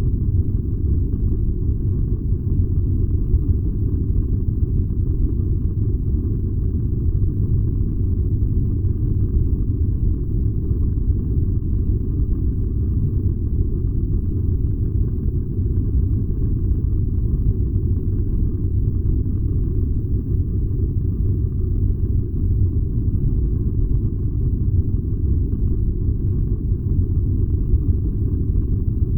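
Furnace burning with a steady, deep, even rumble that does not change.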